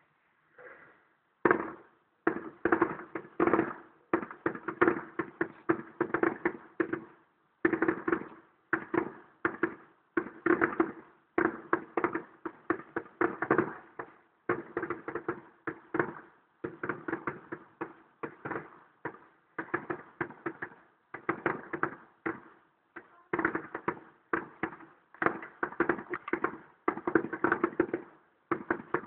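A public firework display heard from far off through a phone's microphone: an unbroken string of shell bursts and crackle, several bangs a second, each fading quickly.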